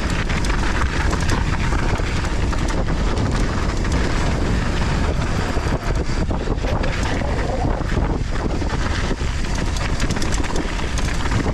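Mountain bike descending a rough trail at speed: steady wind rush over the camera microphone, with tyres rolling over loose volcanic soil and frequent clicks and knocks as the bike rattles over bumps and rocks.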